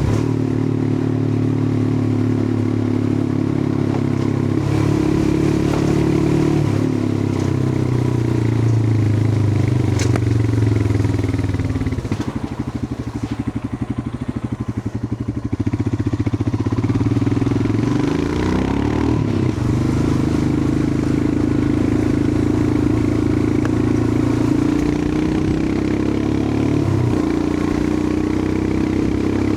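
Royal Enfield Himalayan 411's air-cooled single-cylinder engine running on the move. Around the middle the revs and level drop off, with the engine's separate firing pulses showing through. The revs then rise again and it settles back to a steady cruise.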